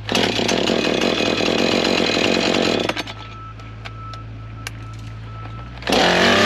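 Husqvarna two-stroke chainsaw running at high revs, dropping to a quieter idle about three seconds in, then revved up hard again near the end.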